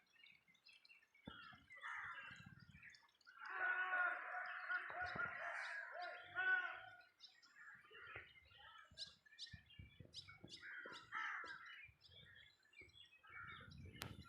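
Wild birds chirping and calling in short, scattered notes. A louder run of lower, pitched calls comes from about three and a half to seven seconds in.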